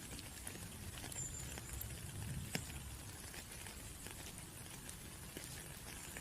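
Rain falling, with many scattered drops ticking and one louder drop about two and a half seconds in.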